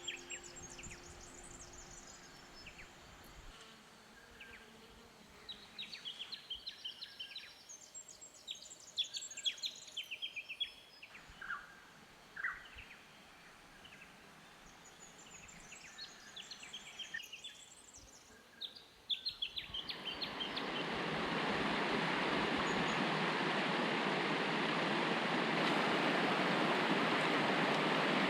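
Wild birds chirping and trilling in the bush. About two-thirds of the way through, the steady rush of water over a river cascade rises and stays loud.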